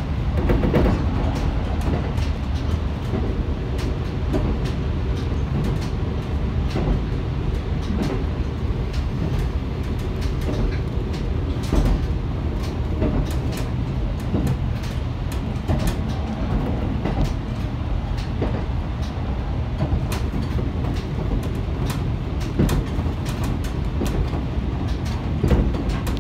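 Interior ride noise of a diesel railcar running along the track: a steady low rumble with frequent, irregular clicks and knocks from the wheels on the rails.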